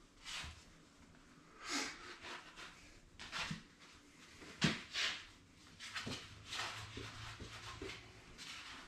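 Hands working a deer cape over a taxidermy form: a dozen or so short, separate rustling and rubbing sounds.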